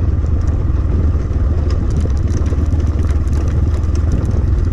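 X-Pro Templar X 250 dirt bike running steadily on a trail, its engine noise mixed with heavy wind buffeting on the microphone and scattered light clicks.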